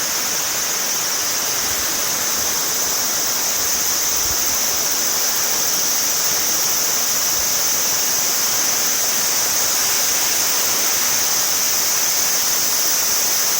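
Kise River in flood, swollen by typhoon rain: fast, high water rushing past in a loud, steady noise.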